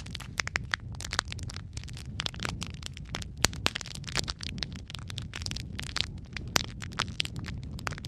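Wood fire crackling, with frequent irregular pops and snaps, one sharp loud pop about three and a half seconds in, over a steady low rumble of flame.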